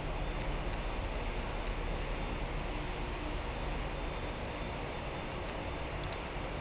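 Jet aircraft engines at the airport: a steady noise with a heavy low rumble.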